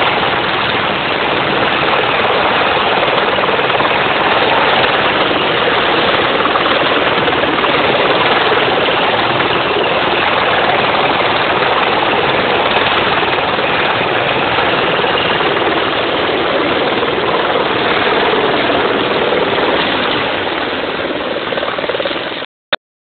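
Helicopter hovering low to fill its water bucket from a river: loud, steady rotor and engine noise that cuts off abruptly near the end.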